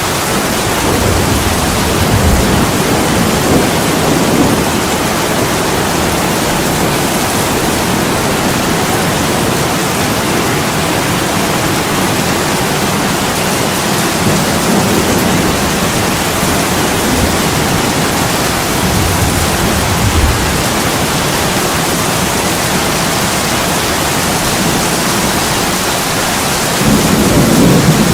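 Heavy rain falling steadily on a window, a dense even hiss, with a few slow low rumbles swelling up and dying away, the loudest near the end.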